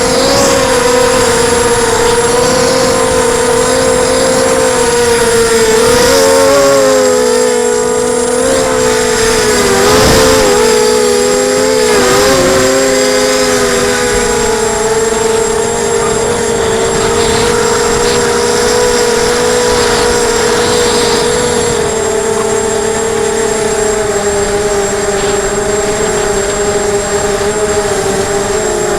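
Emax 250 quadcopter's brushless motors and propellers humming steadily in flight, the pitch wavering a few times with throttle changes.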